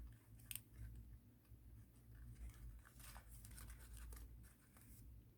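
Faint, scattered rustling and creasing of thin origami paper being handled and folded, over a low steady hum.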